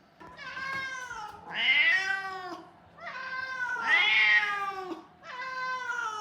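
Siamese-mix cat meowing over and over: about five long, drawn-out calls, each roughly a second, the second and fourth the loudest. It is the persistent crying of a cat that is not settling into being kept in a room.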